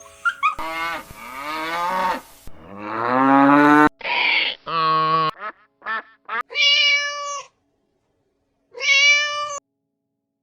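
Cats meowing: a string of separate meows joined by abrupt edits. The first few are long and drawn out, and the later ones are short and clipped.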